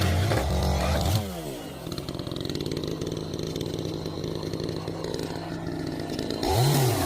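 Chainsaw engine at full throttle, dropping about a second in to a steady idle, then revved up again near the end.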